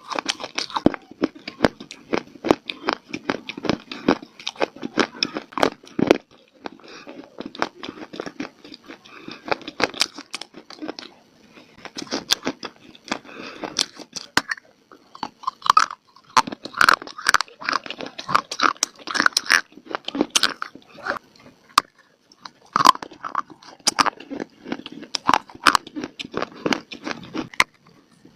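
A person biting and chewing crunchy baked clay (mitti) close to the microphone: dense runs of sharp crackling crunches, broken by short pauses between bites.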